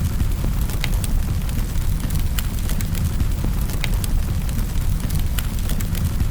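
Wood fire in a fireplace crackling: a steady low rumble of flames with sharp pops and snaps scattered about once or twice a second.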